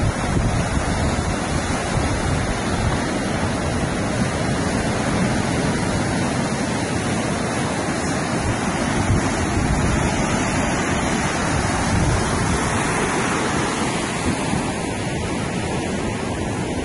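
Ocean surf washing onto a beach, a steady rushing wash with wind buffeting the microphone.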